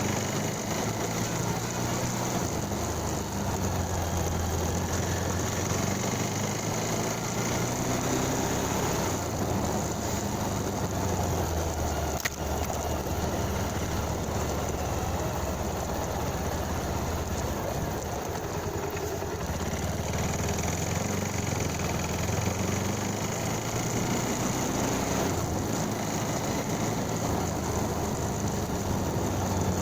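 Motorcycle engine running steadily on the move, with its low engine note under a constant rushing noise. There is a single sharp click about twelve seconds in.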